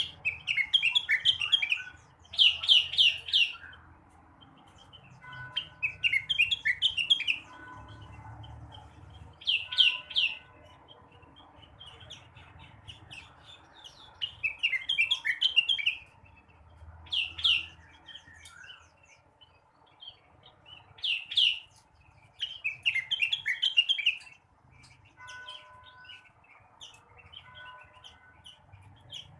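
Cucak rengganis, a leafbird, singing: bursts of quick, varied chirping phrases of a second or two each, repeated with short pauses.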